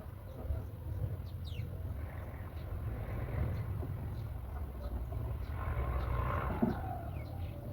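Outdoor ambience: a steady low rumble like wind on the microphone, with faint, short, high chirps of small birds scattered throughout and a brief louder rustle about six seconds in.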